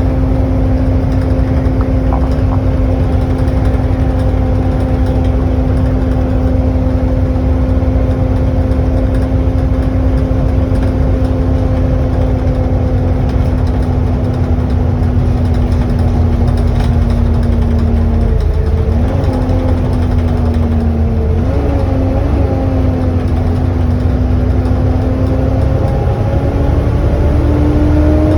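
Volvo B7TL double-decker bus running, heard on board: a low rumble under the loud vacuum-cleaner-like "hoover" whine the type is known for. The whine holds steady and slowly drops, wavers about two-thirds of the way in, then rises as the bus picks up speed near the end.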